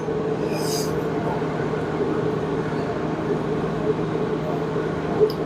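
Steady mechanical hum of a running machine, a constant low drone, with a brief hiss about half a second in.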